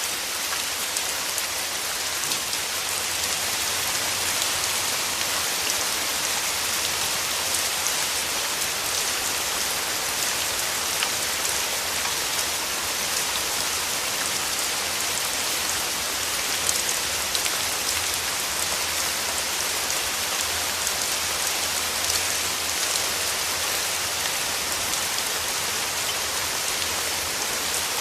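Steady rain falling: a dense, even hiss flecked with many small drop ticks.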